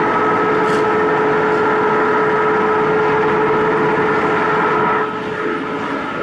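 Organic fertilizer granulation machinery running: a loud, steady mechanical drone with a constant hum, dropping somewhat in level about five seconds in.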